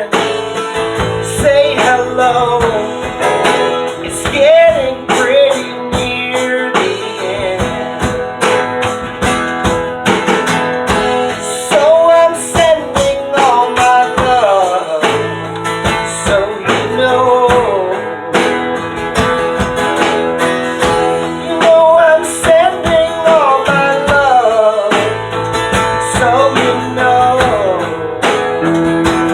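A rock band playing a folk-rock song: guitar with bass and drums, and a melody line on top that bends up and down in pitch.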